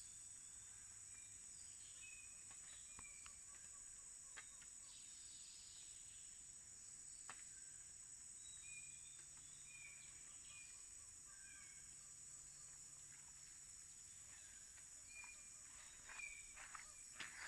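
Faint tropical forest ambience: a steady, high-pitched insect drone with scattered short bird chirps and calls. A few faint knocks come near the end.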